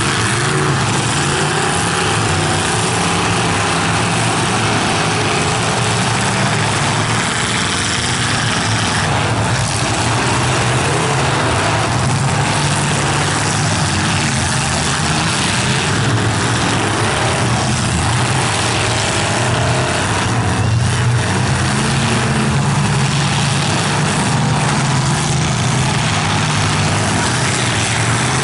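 Several full-size demolition derby cars' V8 engines running and revving hard through open exhaust pipes, a loud layered drone with rising and falling revs. Now and then comes a thump as the cars collide.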